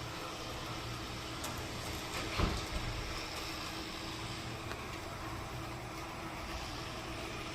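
Steady low vehicle rumble with a constant hum. A short thump comes about two and a half seconds in, followed by a smaller one.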